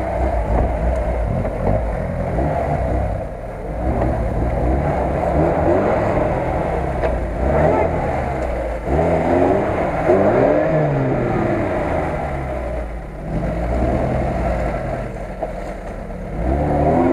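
Lada Niva's engine revving up and down repeatedly under load as the car climbs a slope.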